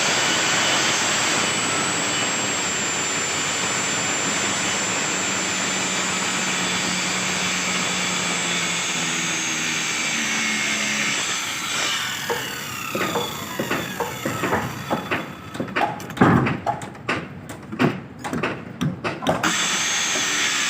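A power saw cutting wood, its motor giving a steady high whine over the cutting noise. About twelve seconds in the whine falls away as the saw winds down. After that come a string of short, irregular bursts and knocks.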